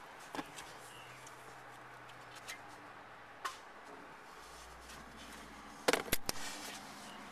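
Quiet background with a few scattered sharp clicks, then a short cluster of louder knocks and clicks about six seconds in.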